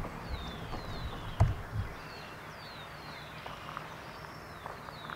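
Small birds calling: many short, high falling whistles, several a second, over a faint outdoor hiss. A couple of low thumps come about a second and a half in.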